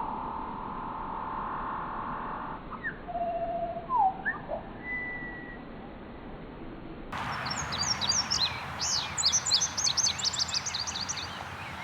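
Bird calls from two different recordings. First come a held whistled note, a short trill and quick rising and falling whistles. About seven seconds in, a different recording starts with a burst of rapid, high-pitched chirping.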